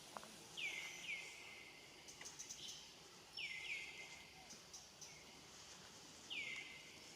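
Short high-pitched animal calls, each sliding sharply down in pitch, mostly in pairs, five in all, with a few faint clicks between them over a low background hiss.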